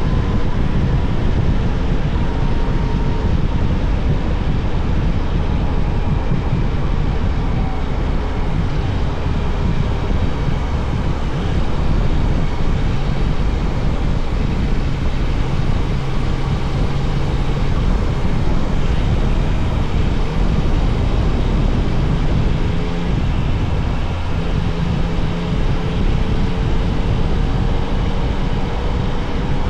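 Yamaha Tracer 900 GT's inline three-cylinder engine running steadily while the bike is ridden. Its pitch shifts slowly and rises gradually near the end.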